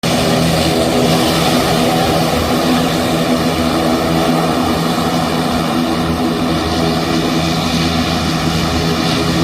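Turboprop engines and propellers of a Vasco ATR 72 airliner running steadily on the ground, a loud, even drone with a low propeller hum that does not rise or fall.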